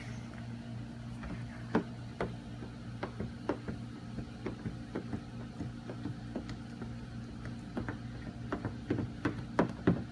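Paint protection film being worked onto a car hood by hand: irregular short squeaks and ticks, more frequent near the end, over a steady low hum.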